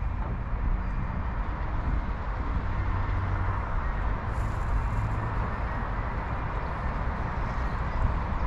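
Diesel train running slowly beside the platform: a steady low engine rumble with a faint hum in it.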